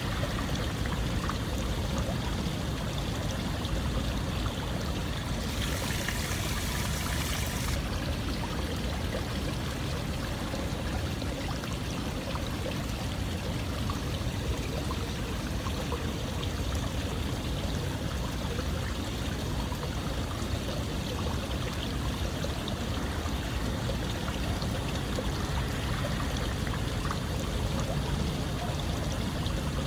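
Water flowing steadily in a continuous rushing wash, with a brighter hiss for a couple of seconds about six seconds in.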